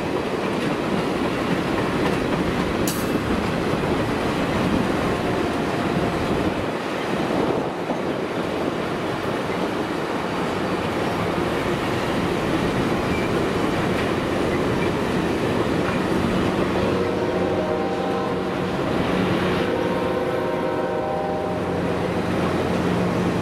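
A long string of circus-train passenger cars rolling past on the rails: a steady rumble of wheels on track. In the last third a cluster of steady tones joins the rumble.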